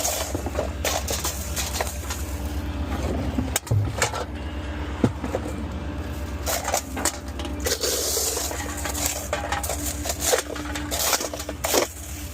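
A small rear-loader garbage truck's engine idles steadily under a scatter of sharp clatters, knocks and rustling as trash is handled.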